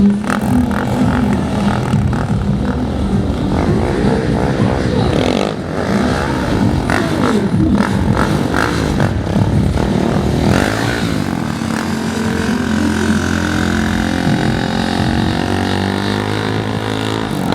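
A stunt vehicle's engine revving and running, its pitch rising and falling, then settling into a steadier drone in the second half.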